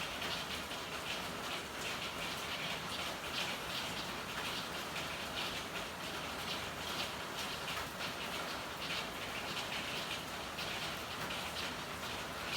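Steady rain falling, a constant hiss with many close drops ticking on hard surfaces.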